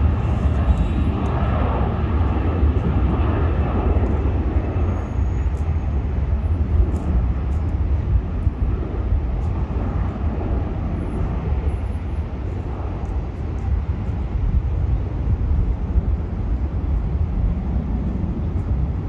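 Jet aircraft engines at an airport, a steady heavy rumble with no breaks.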